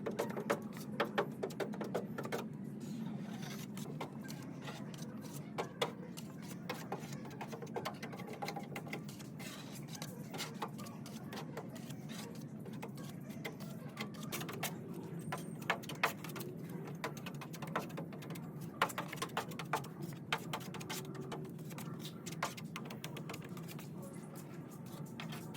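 Irregular sharp taps and clicks, some in quick runs, over a steady low hum.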